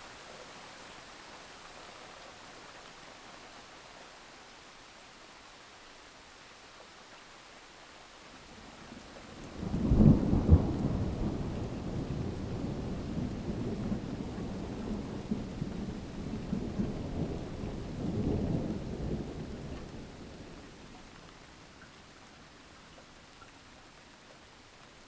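Steady rain with a sudden clap of thunder about ten seconds in, followed by deep rumbling that swells again a few seconds later and then fades back into the rain.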